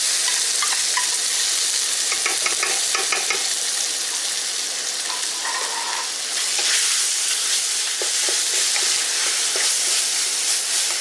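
Hot oil sizzling steadily in a pot of frying garlic and lemongrass as red curry paste goes in, with short clicks and scrapes of a spoon against the pot and container.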